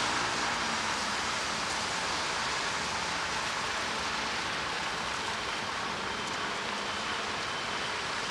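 Steady rain falling on a city street, an even hiss.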